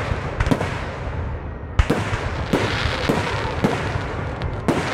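Fireworks and firecrackers going off: irregular sharp bangs and pops, the loudest a little under two seconds in, over a steady crackle.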